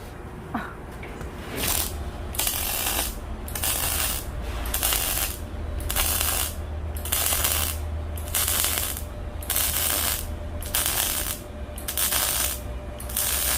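Steel plates being arc-welded in a series of short crackling welds, roughly one a second with brief pauses between, over a steady low hum. This is the stove's lid being welded on piece by piece.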